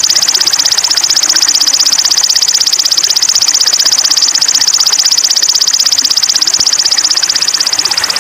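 A small songbird's high-pitched, very fast trill, one short note repeated evenly many times a second and held without a break, from a training recording for sogon birds.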